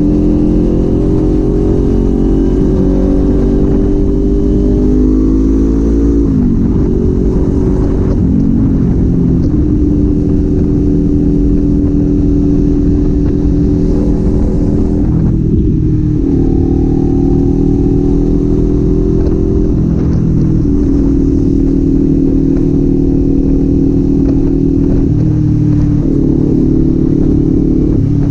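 Kawasaki Z400 399 cc parallel-twin engine and exhaust under way. The pitch climbs under acceleration, drops sharply at a gear change about six seconds in, then holds at a steady cruise, with another drop around the middle and smaller changes in engine speed later on.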